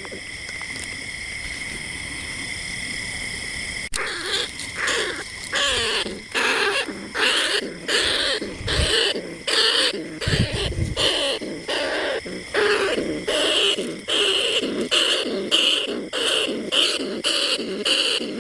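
Rats squeaking and chirping in quick, repeated short calls, several a second: a rat call recording used to lure bandicoot rats and field rats. A steady high whine with several fixed pitches runs for about the first four seconds, then stops abruptly as the squeaking begins.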